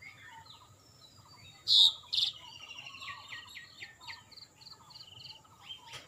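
Wild birds chirping and calling in woodland: a louder call about two seconds in, then a run of evenly spaced high, piping notes over softer chirps.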